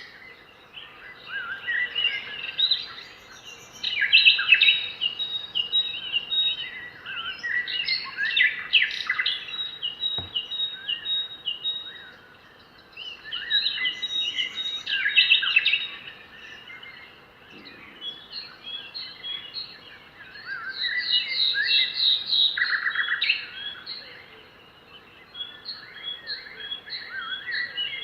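Several wild birds singing and calling together in bouts of quick chirps, trills and whistles, with quieter stretches between bouts. A single faint click sounds about ten seconds in.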